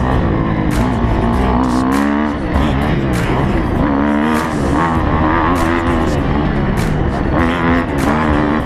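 Motocross bike engine revving hard, its pitch rising and falling over and over.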